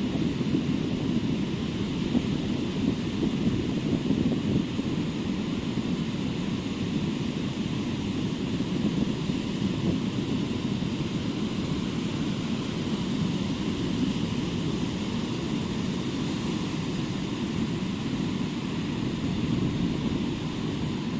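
Steady wash of ocean surf on a beach, with a low rumble of wind on the microphone.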